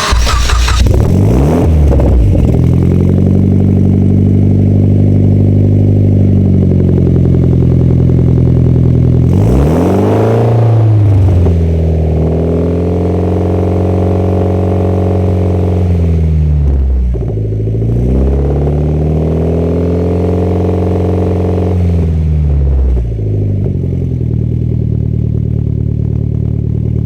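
Mitsubishi Lancer Evo X's turbocharged 2.0-litre four-cylinder starting lukewarm, already warmed from an earlier run, catching with a flare at once. It then runs at a fast idle, with one rev blip about ten seconds in and the engine speed sagging and recovering a couple of times later on.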